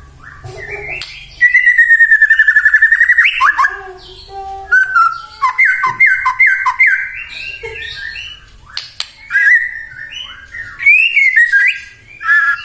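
White-rumped shama singing a loud, varied song: a fast rattling trill of about ten notes a second a second or so in, then a run of clear whistled and slurred phrases.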